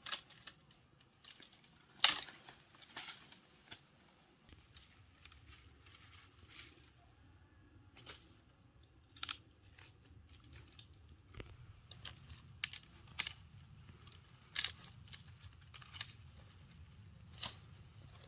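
Dry wood crackling and snapping in irregular sharp cracks, the loudest about two seconds in, with a faint low hum coming in partway through.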